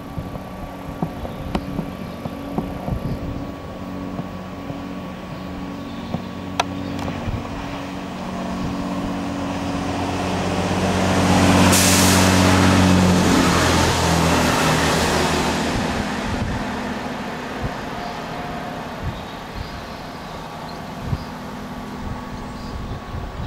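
Diesel passenger train approaching and passing at speed. The engine hum grows as it nears, the rush of wheels on rail peaks about halfway through as the carriages go by, and then it fades away.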